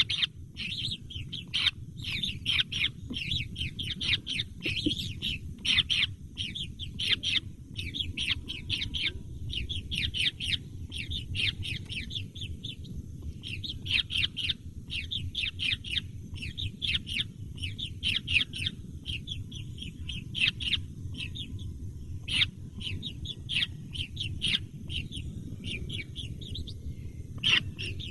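Nestling birds cheeping rapidly and continuously: short, high, downward-sliding chirps, several a second, with a couple of brief lulls, over a steady low rumble.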